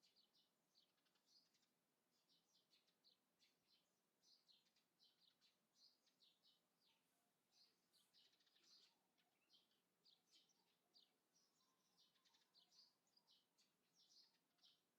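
Faint chirping of small birds: many short, high calls in quick succession throughout.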